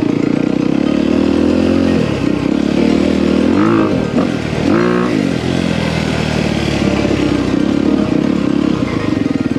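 Dirt bike engine running steadily while riding, with two quick revs up and back down near the middle.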